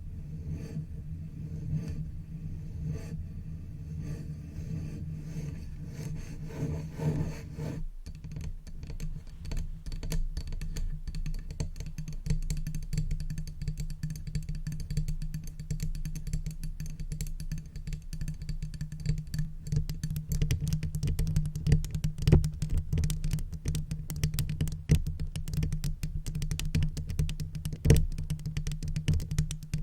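Makeup brush bristles brushing directly over a microphone: a dense, scratchy crackle over a low rumble. The strokes change about eight seconds in and grow busier and more crackly.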